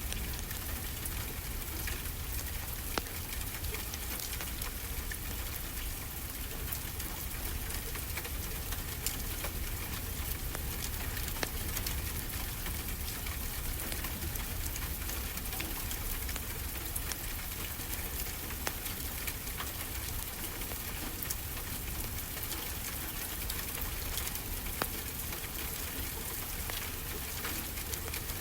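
A wood fire crackling, with scattered sharp pops, over a steady hiss and low rumble of ocean surf.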